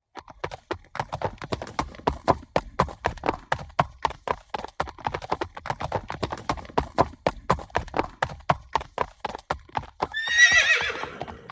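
Horse sound effect: a steady run of clip-clopping hoofbeats, about five a second, for some ten seconds, ending in a whinny that wavers and falls in pitch.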